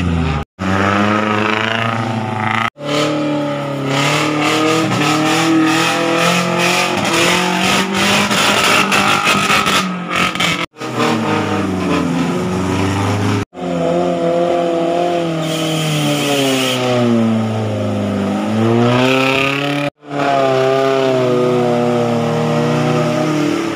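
Off-road 4x4 engines revving hard, pitch rising and falling as they drive through a river bed, with a rapid clatter for several seconds in the first half. The sound cuts off abruptly several times.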